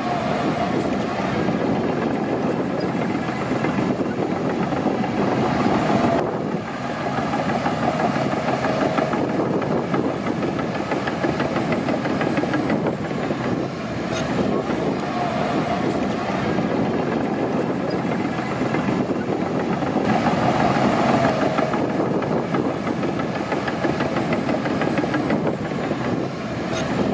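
Crawler bulldozer's diesel engine working steadily, with a dense rapid clatter running through it and brief easings a few times.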